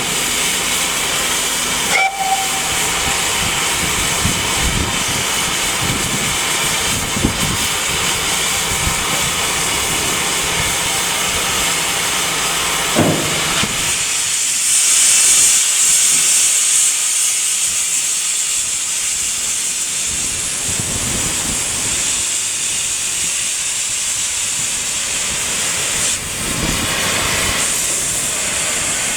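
Steam locomotive hissing steam steadily, the hiss growing louder for a few seconds about halfway through, with a brief short tone near the start and a single knock just before the louder hiss.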